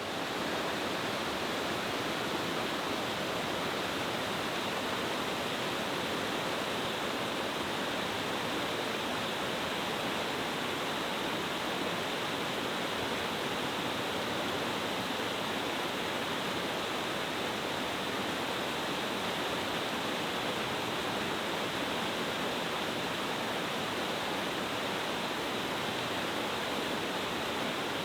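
Mountain-stream waterfall cascading down several tiers, a steady, even rush of water.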